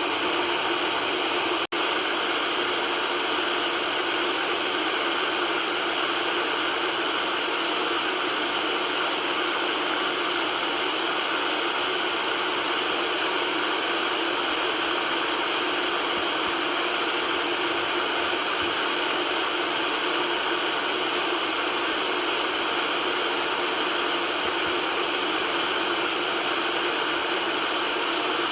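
Steady white-noise hiss, spread evenly through the mids and highs with almost no bass. It is broken by one split-second gap about two seconds in.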